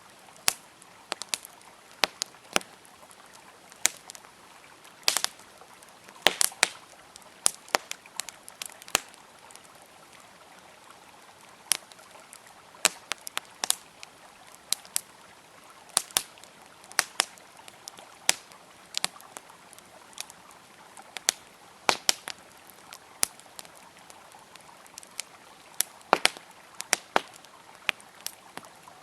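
Campfire crackling, with sharp irregular pops and snaps, some in quick clusters, over the steady hiss of a flowing river.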